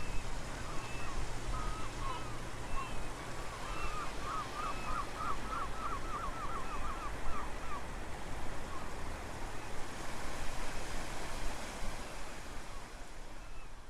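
Wind rumbling on the microphone over a steady wash of low-tide surf, with a bird chirping, including a quick run of repeated notes about four to seven seconds in.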